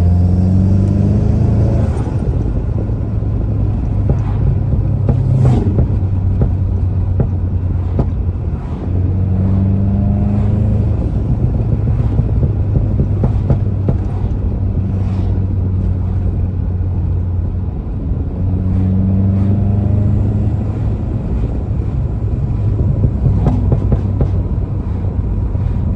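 VW GTI's turbocharged four-cylinder running through an AWE Touring stainless catback exhaust under hard acceleration in sport mode, rising in pitch on three pulls with drone in between. A few sharp pops and crackles come on lift-off, from a stage 2 tune set up for pops and bangs.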